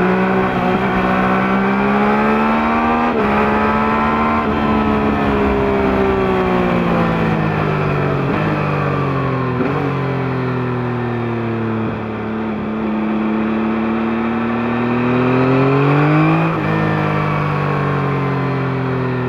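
A 2021 Yamaha MT-09's 890 cc three-cylinder engine, with the stock exhaust, heard from under the seat while riding. The revs climb with a couple of gear changes, fall away for several seconds as the bike slows, then rise again, with another upshift near the end.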